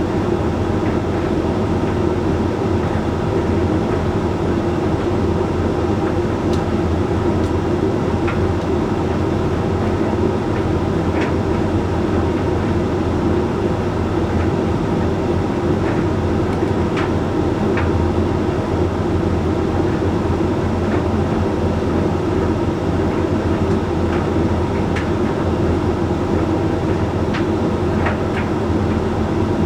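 Hoover Link X Care HLX C10DRGR condenser tumble dryer running steadily mid-cycle, drum turning and fan humming, with faint irregular clicks scattered through.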